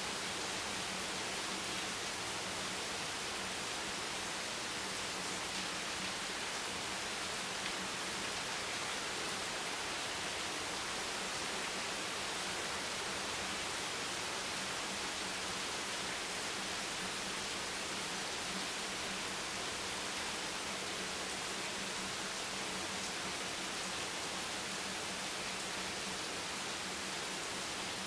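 Steady rain noise: an even, unbroken hiss with no separate drops, thunder or changes in level. A faint low hum sits underneath.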